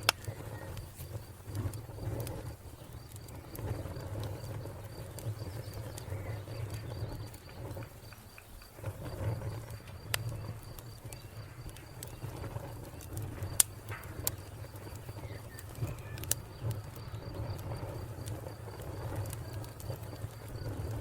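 Wood fire crackling, with scattered sharp pops over a low steady rumble; the loudest pop comes about two-thirds of the way through. A cricket chirps in an even, steady rhythm throughout.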